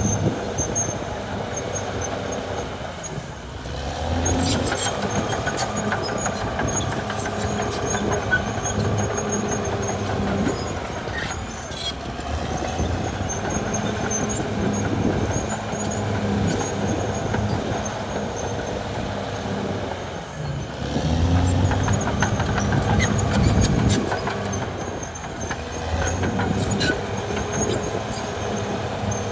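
Caterpillar D6R XL bulldozer's diesel engine running under load while it pushes earth, with scattered metallic clicks. The engine eases off briefly twice, about three seconds in and again about twenty seconds in, then builds back up each time.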